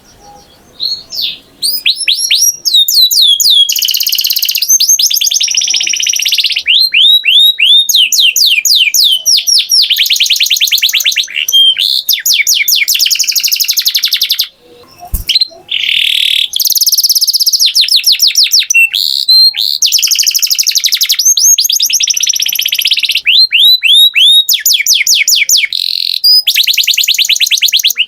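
Domestic canary singing: long runs of fast repeated high notes, trills and rolls following one another, with a brief pause about halfway through.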